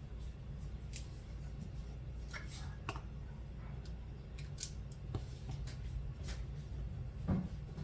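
Scattered light clicks and taps of a measuring spoon against a spice container while half a teaspoon of celery salt is measured out, with a duller knock near the end, over a steady low hum.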